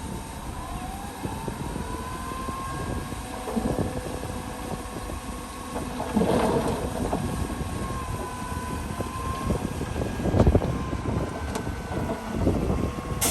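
Heavy earthmoving machinery running under load, a low diesel rumble with a faint wavering whine over it. Two heavier thumps come about six seconds in and again near ten and a half seconds.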